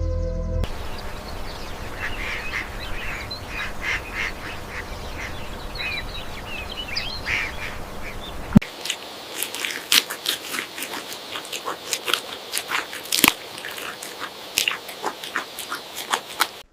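Short, repeated animal or bird calls over a steady rush of noise. About halfway through, the rush falls away and the rest is a run of sharp crackling clicks.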